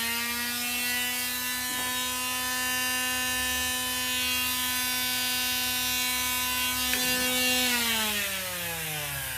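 Handheld electric power tool motor running at a steady whine, then winding down in pitch as it is switched off near the end.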